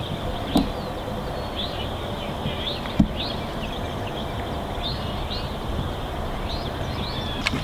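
Songbirds chirping over and over in short, quick calls above a steady low outdoor rumble, with two dull thuds, the louder one about three seconds in.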